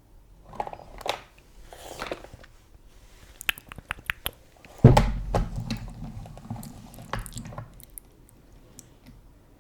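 Close-miked ASMR trigger sounds: soft rustles and a run of sharp clicks and taps, with a loud thump about five seconds in followed by a couple of seconds of low rumbling handling noise.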